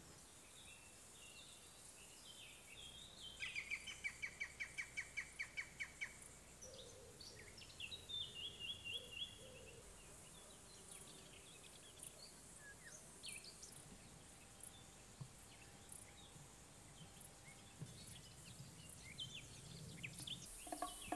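Wild birds singing in a quiet countryside: one bird gives a fast run of repeated high notes, about five a second, some three to six seconds in, then a short high trill, followed by scattered faint chirps over a soft background hiss.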